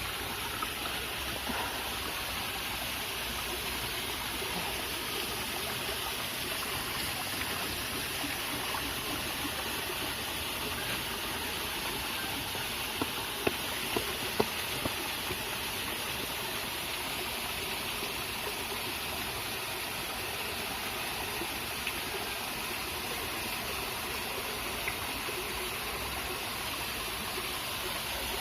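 Mountain stream running steadily over rocks, a continuous rush of flowing water. A few faint clicks about halfway through.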